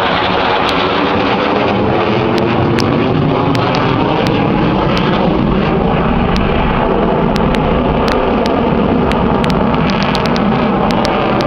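Aircraft engine noise, loud and steady, with a hollow tone that slowly sweeps in pitch.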